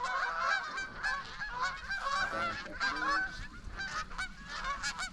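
A flock of Canada geese honking and clucking, many short overlapping calls in quick succession.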